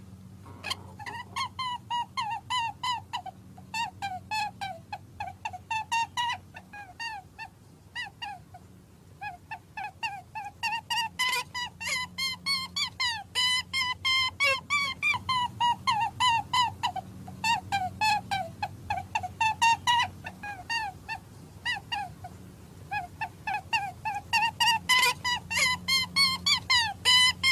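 Young birds peeping over and over, a dense run of short, high, downward-sliding calls a few per second, with a steady low hum beneath.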